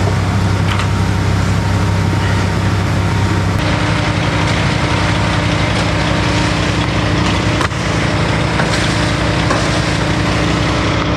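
An engine running steadily, its pitch shifting slightly about three and a half seconds in.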